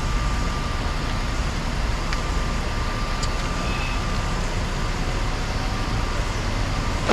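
A vehicle engine running steadily as a low rumble, with a faint thin whine over the first few seconds.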